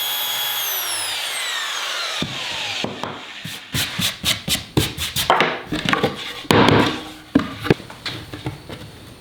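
A power tool's motor running steadily, then switched off and winding down in a falling whine over about two seconds. It is followed by a run of sharp knocks and short scrapes of wood being handled.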